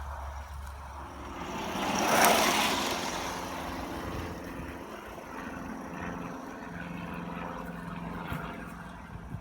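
BR Standard Class 4MT 2-6-4 tank steam locomotive running past. It is loudest about two seconds in, then settles into a steady rumble.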